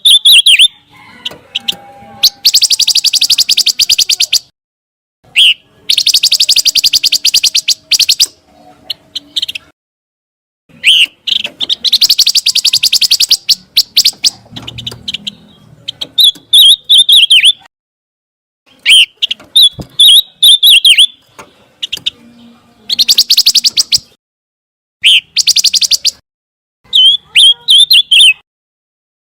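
Pancawarna bird singing in repeated phrases: a short warbled whistle, then a long, very rapid, buzzy trill lasting one to two seconds. This alternation comes round about half a dozen times.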